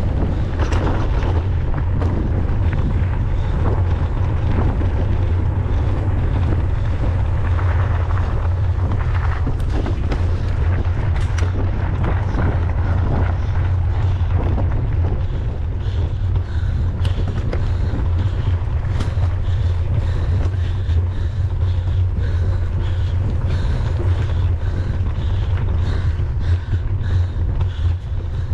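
Wind buffeting the microphone of a camera on a moving mountain bike: a steady low rumble throughout, with scattered clicks and rattles from the bike running over rough trail.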